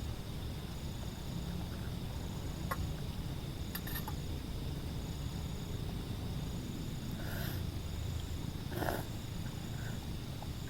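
Outdoor nature ambience: a steady low rumble under a high, steady tone and a higher tone that comes and goes in pulses of about a second. A few short clicks and brief rustles stand out, the loudest near the end.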